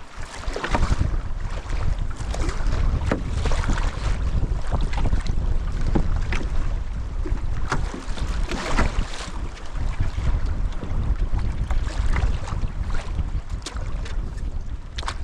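Strong wind buffeting the microphone in a steady low rumble, with irregular water splashes and sloshing around a canoe being paddled into the wind.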